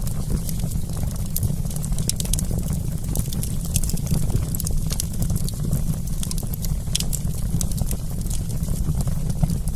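Wood fire crackling: many small, irregular snaps and pops over a steady low rumble.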